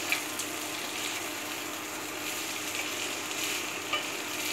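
Prawn fried rice sizzling steadily in a hot pan as it is stirred with a spatula, with a couple of light spatula clicks against the pan near the start and near the end.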